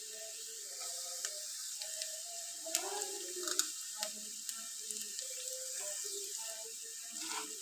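Chopped onion frying in oil on a flat griddle (tawa): a steady sizzle, with a few light clicks about three seconds in as chopped green chillies go into the pan.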